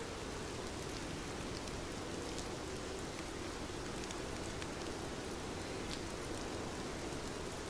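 Steady, even rainfall, with scattered single drops ticking sharply above the constant patter.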